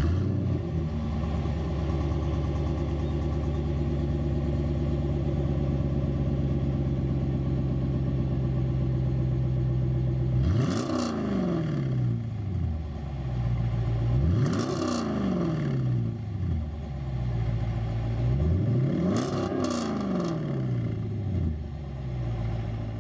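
2017 Dodge Durango R/T's 5.7-litre Hemi V8 idling through a mid-muffler delete, X-pipe and Gibson axle-back exhaust, loud. About halfway through it is revved three times, each rev rising quickly and falling back to idle.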